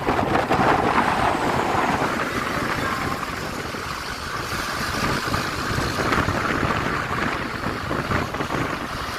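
Passing road traffic, with wind buffeting the microphone.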